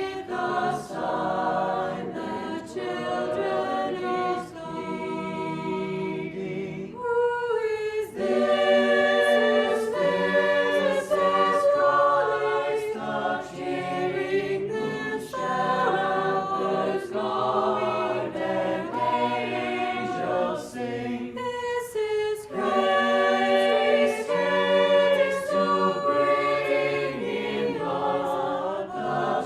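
High school chamber choir singing a Christmas carol a cappella in several parts, with brief breaks between phrases.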